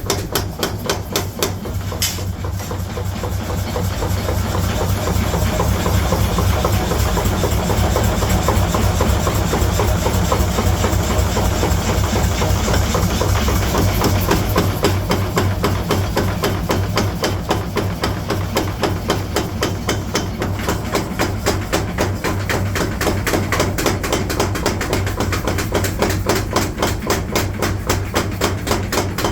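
Rapid, evenly spaced hammer blows on steel, several a second without a break, over a steady low machine hum, typical of a mechanical power hammer forging a trowel blank. The blows grow a little louder about four seconds in.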